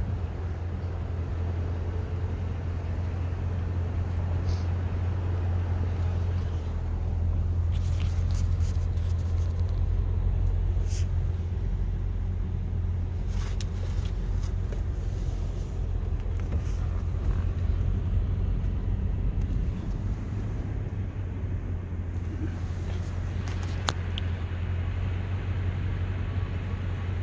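Car driving slowly, heard from inside the cabin: a steady low engine and road rumble, with a few faint clicks and ticks.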